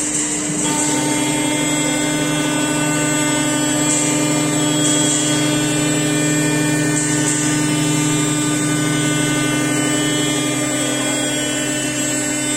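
Stone-engraving CNC router running with a steady whine of many fixed tones, one of its lower tones dropping away about ten seconds in.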